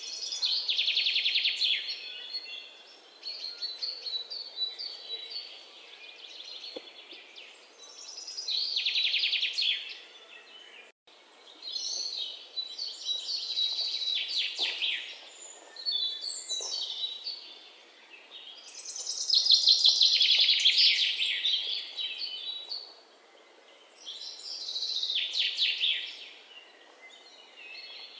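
Songbirds singing in repeated trilled, chattering phrases of about two seconds each, several times over, with quieter chirps between them. The sound cuts out for an instant about eleven seconds in.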